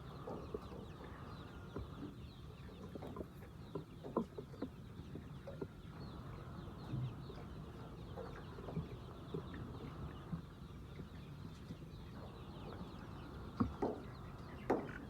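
Chickens clucking: short, scattered calls from several birds, some louder than others.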